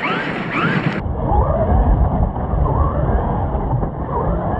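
Traxxas MAXX RC monster truck running off-road, its electric motor whining up in pitch again and again as the throttle is worked, over a heavy low rumble. About a second in the sound changes abruptly, as at a cut to another recording.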